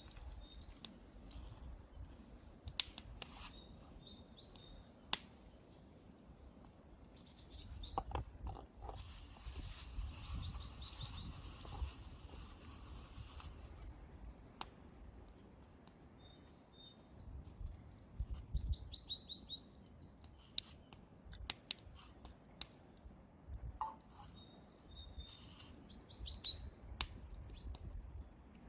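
A small songbird sings short phrases of quick, falling high notes, repeated every few seconds. Scattered clicks and crunches of someone eating close by run under it, with a few seconds of rustling about ten seconds in.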